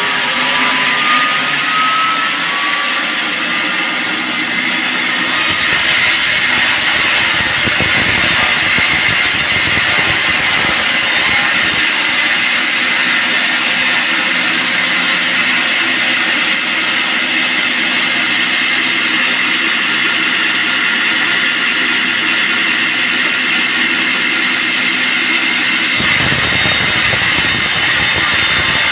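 Band sawmill running with a steady mechanical noise and a high whine. The whine rises in pitch over the first few seconds.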